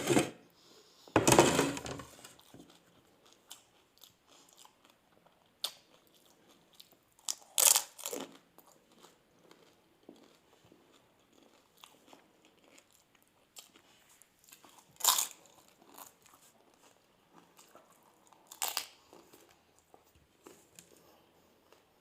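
Crisp fuchka (pani puri) shells crunching as they are bitten and eaten one after another: four loud crunches at uneven intervals, with quiet chewing between.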